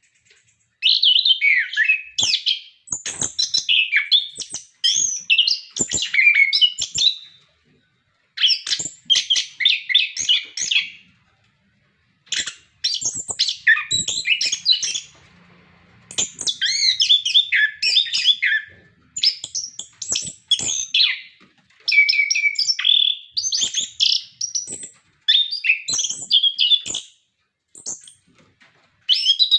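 Chestnut-capped thrush (anis kembang) singing continuously, giving a long run of fast, varied, warbling phrases. Each phrase lasts about one to four seconds, with brief pauses between them.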